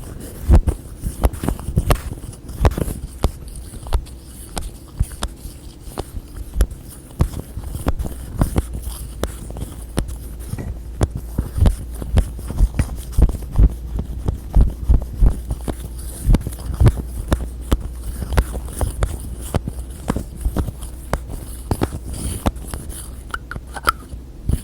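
Close-miked hands tapping on containers and lids in a dense, irregular run of soft knocks and clicks, several a second, with a deep thud to many of them.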